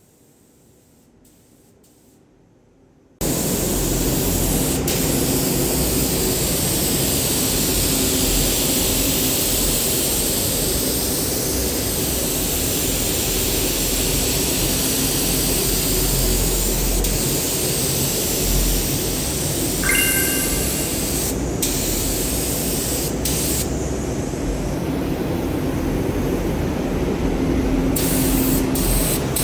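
Paint spray gun hissing as it sprays paint, starting abruptly about three seconds in and running steadily, with the hiss shifting in tone as the gun moves and a few brief breaks in the spray near the end.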